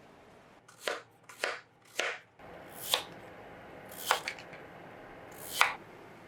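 Seven sharp, separate knocks at uneven spacing, as of a hard object striking a hard surface.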